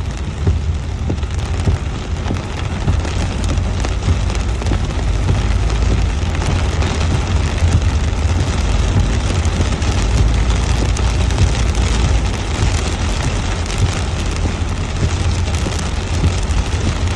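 Heavy tropical rain pouring down steadily over a constant low rumble.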